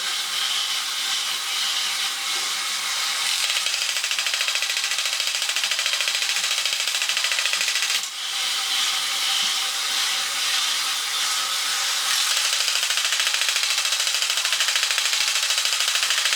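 Battery-operated 1960s Japanese Swivel-O-Matic Astronaut tin robot walking: its small motor and gearbox run with a rapid, steady ratcheting clatter from the shuffling ratchet-feet mechanism. There is a brief break in the sound about halfway through.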